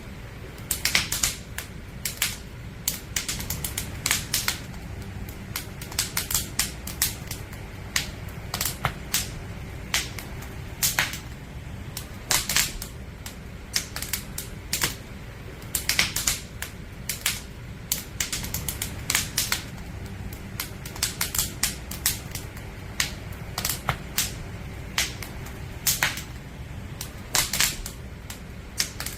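Wood fire crackling: irregular sharp snaps and pops, often in quick clusters, over a low steady background noise.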